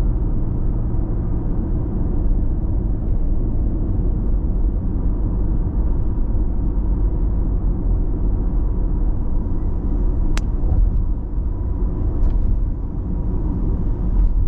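Car driving at steady expressway speed: continuous tyre and road rumble with engine drone, heavy in the low end, heard from inside the car. There is one sharp click a little after ten seconds in.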